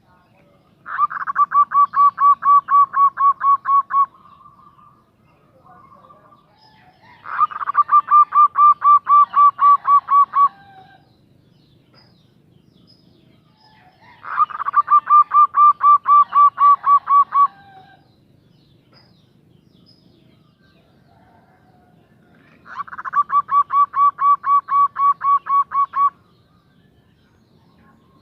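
Female zebra dove (perkutut) calling: four bouts of quick, evenly repeated short cooing notes, each bout lasting about three seconds, with pauses of several seconds between them. This is the female's call to a male.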